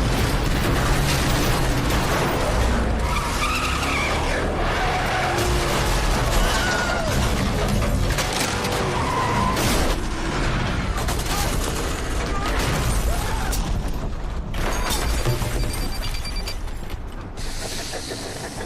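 Film car-crash sound mix: cars, a Chevrolet Suburban and a Mercury Grand Marquis, with tyres squealing and several hard crashing impacts and shattering glass, over dramatic score music. A short repeated high beeping comes in near the end.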